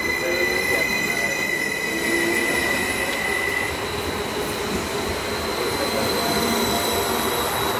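Local passenger train moving slowly along the platform, its wheels squealing: a steady high two-note squeal over a low rumble, the lower note dropping out about three and a half seconds in.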